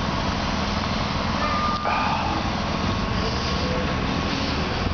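Heavy vehicle or equipment engine running steadily, with a brief higher tone a little under two seconds in.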